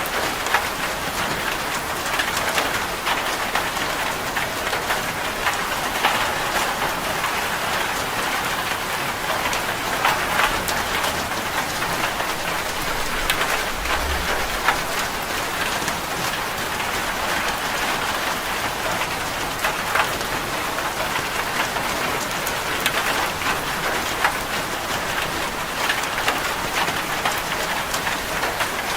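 Steady heavy rain drumming on a corrugated zinc roof, a dense patter with many individual drops ticking sharply on the metal.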